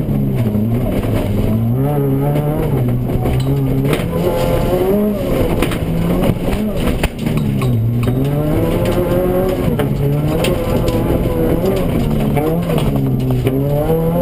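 Honda Civic Type R EP3's 2.0-litre i-VTEC inline-four heard from inside the cabin. It revs up hard and drops back again and again as the car accelerates, shifts and lifts between cones on loose gravel. Scattered clicks and clatter sound from the car and the gravel throughout.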